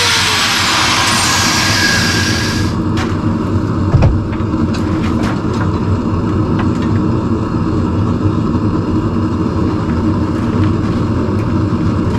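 Grinder running on the steel tongs for the first few seconds, a loud hiss with the motor's pitch dropping under load. Then the grinding stops and a steady low motor hum carries on with a few light clicks and one knock about four seconds in.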